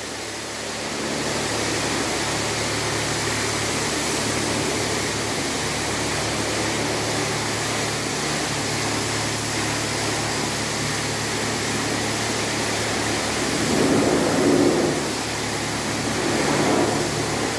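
Steady hiss of a sprayer applying dielectric protectant to a car's engine bay at a car wash, with a low, steady machine hum under it and a brief louder swell about fourteen seconds in.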